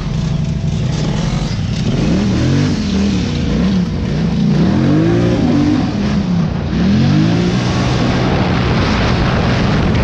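Engine revved hard several times, its pitch rising and falling over a steady rough rumble.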